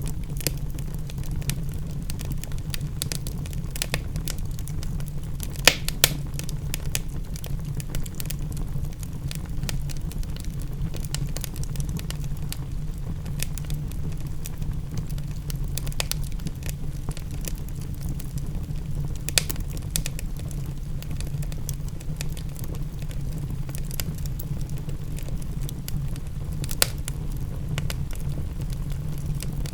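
Wood fire in a fireplace crackling, with scattered small clicks and a few sharper pops, the loudest about six seconds in, over a steady low rumble.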